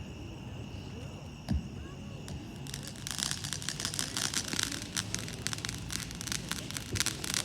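A consumer firework cake shot launches with a single sharp thump about a second and a half in, then dense crackling from crackling stars fills the rest.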